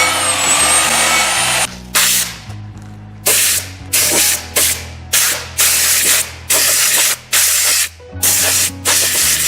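A steady, loud whirring noise with a thin whine, which stops about a second and a half in. Then come about ten short hissing sprays in quick succession, each under half a second, as from a pressurised spray used on the brake parts. Background music plays underneath.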